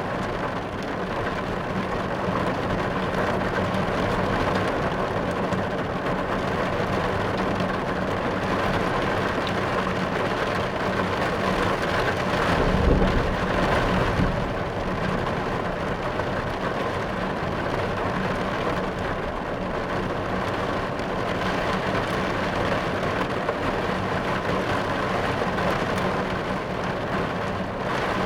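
Steady rain falling on a car's roof and windows, heard from inside the car, with a low rumble of thunder about halfway through.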